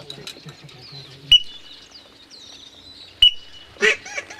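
Two shotgun shots, sharp and loud, about two seconds apart, with faint high whistling and chirping of ducks between them and a single duck quack near the end.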